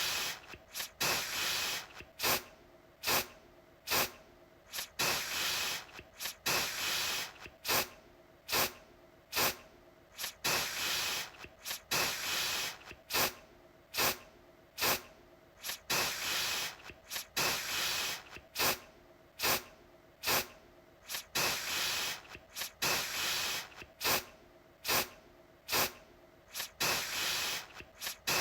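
Aerosol deodorant can spraying in repeated bursts: short sharp puffs mixed with longer hissing sprays of up to about a second, coming every second or two.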